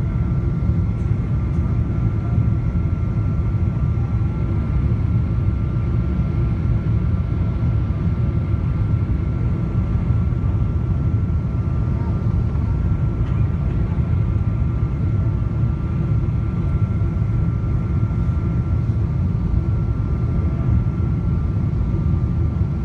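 Steady cabin noise of a Boeing 777-200ER in flight: a dense low rumble of airflow and engines, with a few steady whining tones from the Pratt & Whitney PW4090 turbofans.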